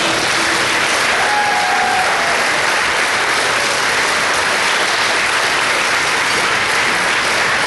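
An audience applauding steadily after an award is presented, with a few faint cheers.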